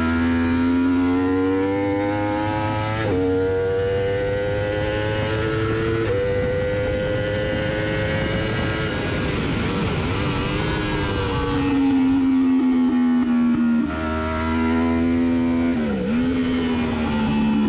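Yamaha R1 superbike's inline-four engine at racing speed: the pitch climbs hard and drops sharply twice at upshifts, then falls away under braking with a quick dip near the end as the rider changes down.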